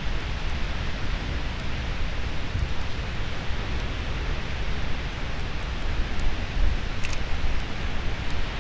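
Steady wind rumbling on the microphone over the even hiss of Pacific surf on a beach.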